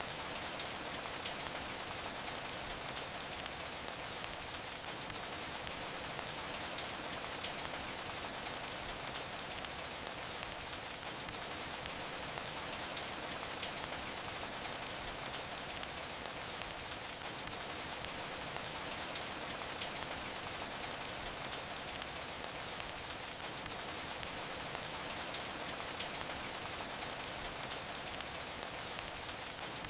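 Steady rain falling, an even hiss, with occasional sharp pops and crackles from a wood fire in a fireplace.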